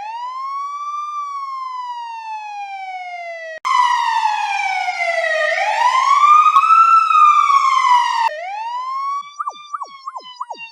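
Emergency-vehicle siren wailing in a string of variations that cut abruptly into one another. A clean wail rises and slowly falls, then a louder, rougher wail falls, rises and falls again. About eight seconds in, a wail starts with quick falling chirps laid over it, about three a second.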